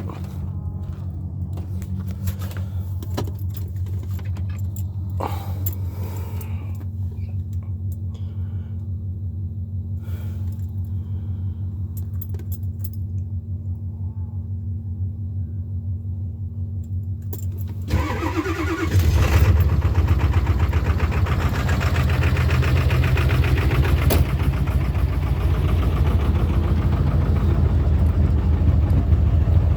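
A 7.3 L Power Stroke turbo-diesel V8 cold-starting in freezing weather: a steady low engine hum, then about eighteen seconds in the engine cranks briefly, catches and runs louder with a steady diesel clatter.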